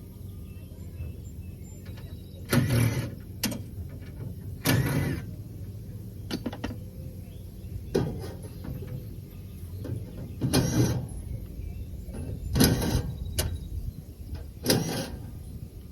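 A small power tool's motor running in six short bursts of about half a second each, roughly every two seconds. This fits a handheld driver backing fasteners out of the air-conditioning unit's panels.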